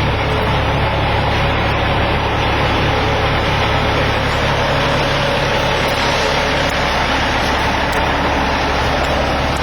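Caterpillar C13 inline-six diesel engine of a Kenworth W900L dump truck running steadily, with no revving.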